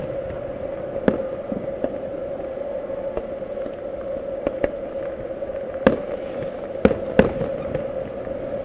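Distant aerial fireworks shells bursting: about eight sharp booms at irregular spacing, the loudest three coming about six to seven seconds in. A steady hum runs underneath.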